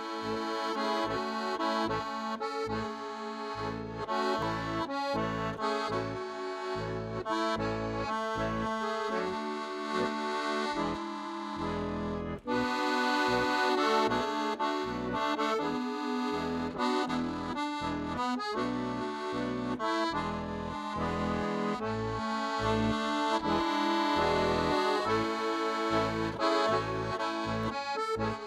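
Accordion-led background music playing a lively melody over a steady pulsing bass, with a brief break about twelve seconds in.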